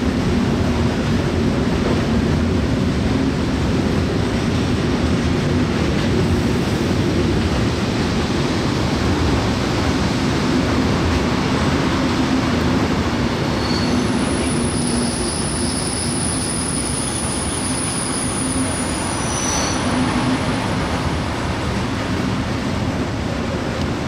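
Heavy freight train of open wagons loaded with copper ore concentrate rolling past, a steady rumble and clatter of steel wheels on the rails. About halfway through, a thin high wheel squeal sets in for several seconds.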